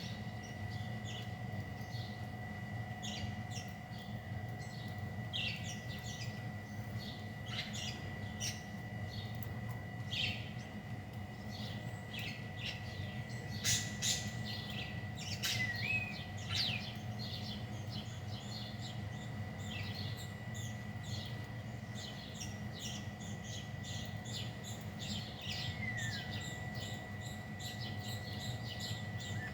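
Birds chirping: many short, high chirps scattered throughout, over a steady low hum and a faint high whine.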